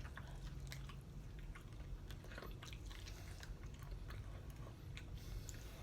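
A person chewing and biting into spicy chicken wings close to the microphone: soft, scattered wet chewing clicks and crunches.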